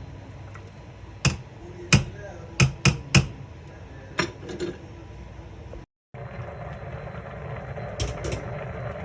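A series of sharp knocks, like a utensil striking cookware: six in the first half, several in quick succession, then a brief dropout followed by a steady noise and two more knocks near the end.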